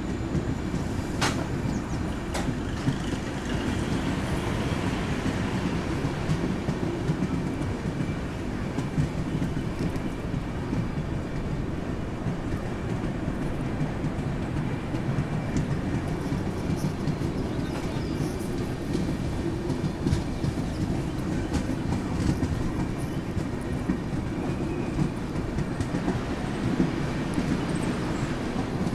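Passenger train coach running along the rails: a steady rumble of wheels and track with clickety-clack and a few sharp clicks, heard from the coach doorway.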